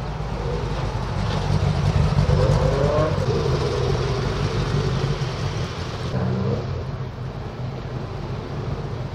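A classic car's engine running as the car drives slowly past. It grows louder to a peak about two to three seconds in and fades after about six seconds.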